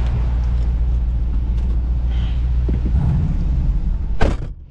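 Jeep Grand Cherokee SRT's V8 with a mid-muffler delete, a steady low exhaust rumble while cruising. Near the end a single sharp knock, after which the rumble drops away suddenly.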